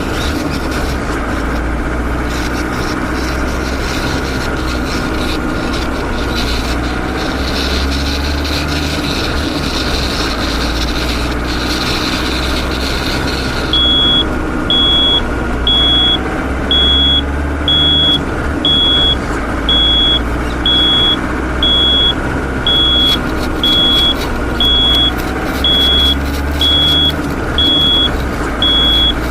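Toy construction vehicle running with a steady motor noise. About halfway through a high electronic beep starts, repeating about once a second like a reversing alarm.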